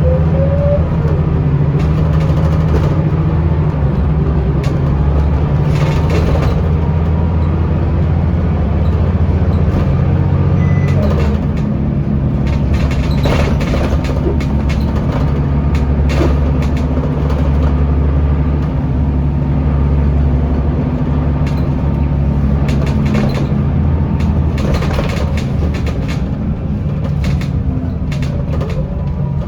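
Scania L94UB bus with ZF automatic gearbox under way, heard from inside: a steady engine drone that shifts pitch at a gear change about eleven seconds in. Knocks and rattles come through every few seconds, and a falling whine near the end as it slows.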